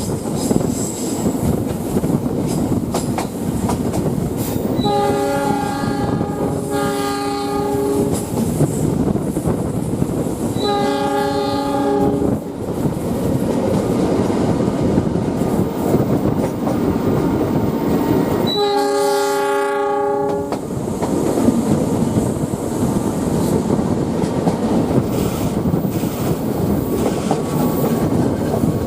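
Steady rumble and clatter of a train's wheels on the rails, heard from on board. The locomotive horn sounds four times: two blasts in quick succession about five seconds in, another around eleven seconds, and a last one near twenty seconds.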